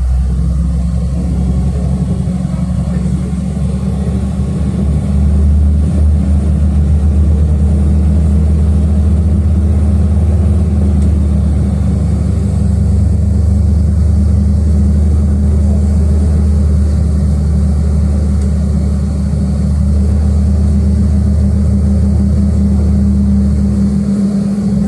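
City bus engine and drivetrain heard from inside the passenger cabin as the bus pulls away from a stop and runs on: a low, steady drone that grows a little louder about five seconds in.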